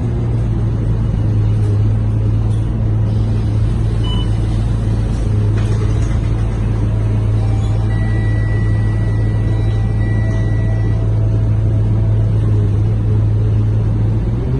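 Scania K230UB city bus's diesel engine running at a steady pitch while the bus cruises, heard from inside the passenger cabin over road noise.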